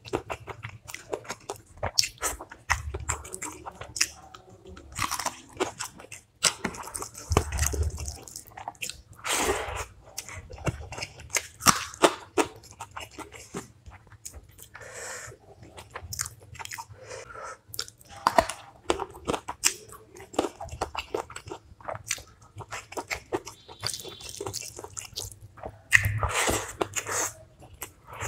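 A person eating close to the microphone: steady chewing with many short, irregular crunches and clicks as food is bitten and chewed.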